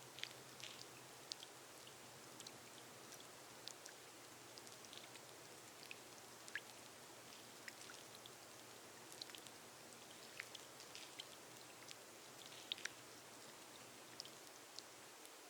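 Rain on a glass roof, faint: a steady soft hiss with scattered sharp drop ticks at irregular intervals.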